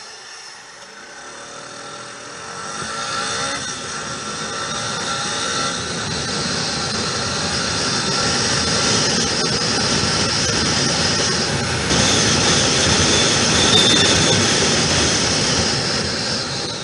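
Motorcycle at speed, heard from the bike: a steady rush of wind and engine and road noise. It builds over the first several seconds, holds, and eases off near the end as the bike slows.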